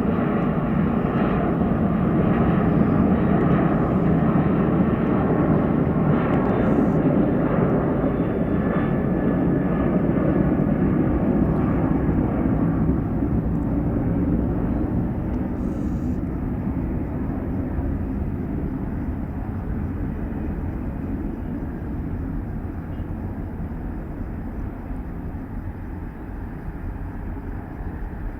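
Boeing 737-800's CFM56-7B jet engines at takeoff thrust: a deep, steady roar that peaks a few seconds in and then slowly fades as the jet moves away.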